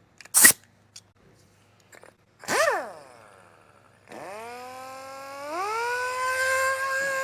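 A few clicks and knocks, then about four seconds in an electric motor starts and spins up with a rising whine that climbs in two steps and settles into a steady hum with a hiss over it.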